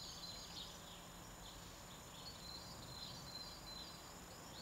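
Faint birdsong outdoors: scattered short chirps and twitters from small birds over a quiet, steady background hum.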